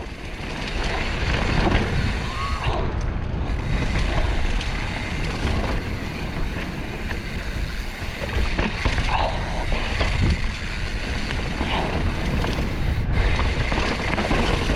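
Mountain bike rolling fast over a rocky trail: tyres and frame rattling with scattered knocks over constant wind noise on the microphone.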